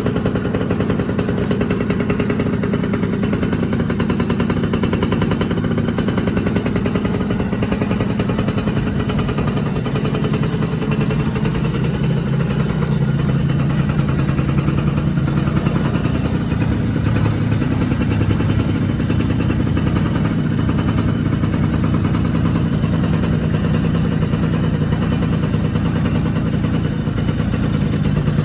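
Yamaha Tornado GS 110's two-stroke single-cylinder engine, on its stock factory exhaust, running steadily near idle with its pitch drifting slightly, a sound its owner calls smooth.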